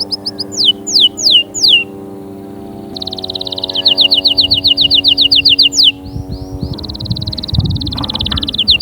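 Domestic canary singing: fast trills of rapidly repeated notes and several quick downward-sweeping whistles, with a short pause about two seconds in. Its song then resumes with a long rolling trill. The song is over soft background music of steady sustained chords.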